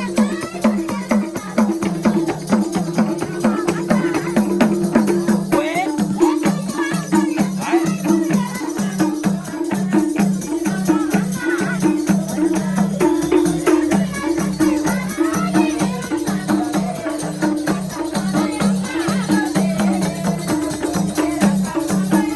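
Nepali folk dohori music playing without singing: a fast, even rhythm of short low notes with shaken percussion.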